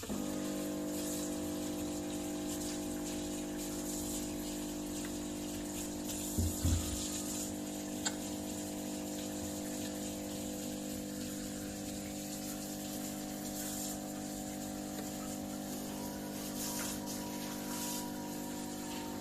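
Klarstein 20-bar espresso machine's pump starting suddenly and running with a steady hum while water flows. Brief low knocks come about six and a half seconds in, and a click comes about two seconds later.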